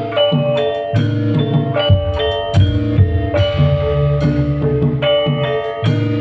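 Live band music: an instrumental passage of quick melodic notes over drums and a strong bass line.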